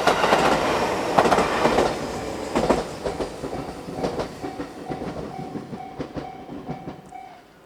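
A train passing over a level crossing, its wheels clicking over the rail joints, fading as it moves away. From about halfway in, a level-crossing warning bell is heard ringing in even, repeated strokes; it stops shortly before the end as the crossing clears.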